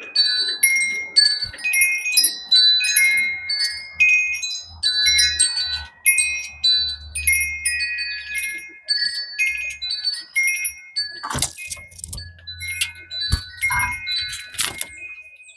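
Metal wind chimes ringing, many bell-like notes struck irregularly and fading, with two sharp knocks in the second half.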